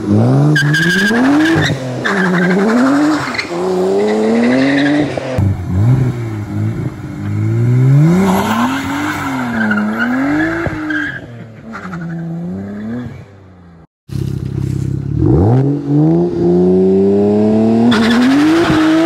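Swapped N54 twin-turbo inline-six in a BMW E36 M3 revving hard, its pitch climbing and dropping again and again, with the rear tyres squealing as they spin. The sound cuts out briefly about fourteen seconds in, then the engine climbs in one long rising rev. The rebuilt three-clutch limited-slip differential drives both rear tyres, which lay down two black stripes.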